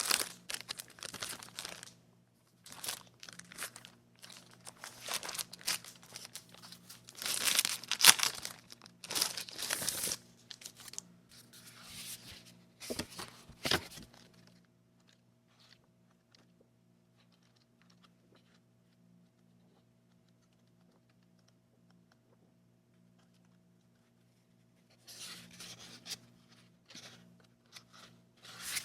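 Paper and packaging being handled, crinkled and torn in quick bursts, with a long quiet stretch in the middle before the rustling resumes near the end.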